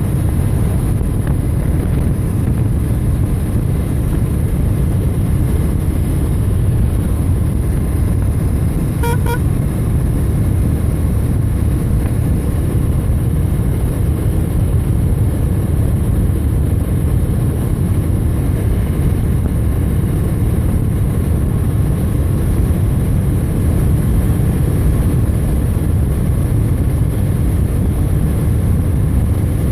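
Steady road and wind rumble of a motorcycle ride, loud and unbroken, with no clear engine note standing out. About nine seconds in there is a brief double beep.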